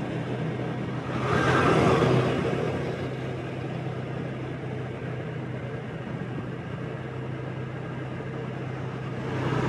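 Motorbike engine running at steady cruising speed with a steady low hum, under road and traffic noise that swells louder about a second and a half in and again near the end.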